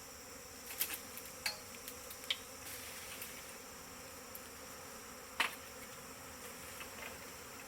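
Large honeybee swarm clustered and humming, a steady dense drone of many wingbeats, with a few brief louder buzzes, the loudest about five seconds in. The swarm is calm, with no brood or honey to defend.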